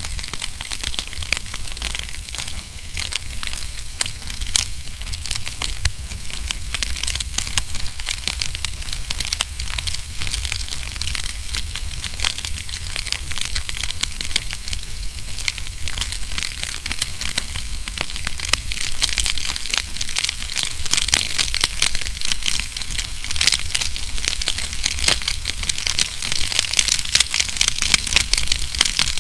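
Wood fire burning in a fireplace, crackling with a dense stream of small snaps and pops over a low rumble, the pops a little louder in the second half.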